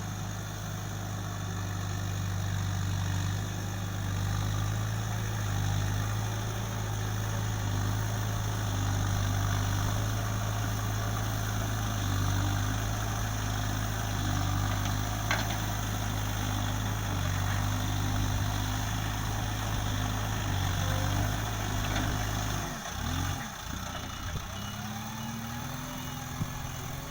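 Backhoe loader's diesel engine running steadily at idle. About three-quarters of the way through its note dips and then settles at a new pitch. One sharp click comes midway.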